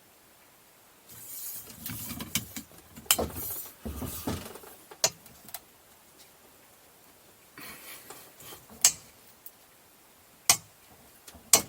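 Metal hand tools clinking and clattering, with several sharp metallic clicks: a socket and wrench being worked on a seized engine fastener that will not budge.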